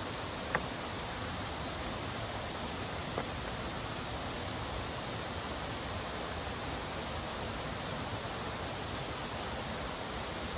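Steady rushing of a mountain stream and waterfall, an even hiss with no change, with a faint click about half a second in and another about three seconds in.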